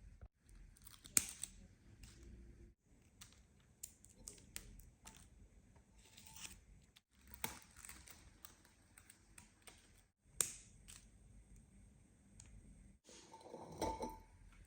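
Quiet household handling sounds: scattered light clicks, taps and rustles in several short clips joined by abrupt cuts, with a louder clatter near the end.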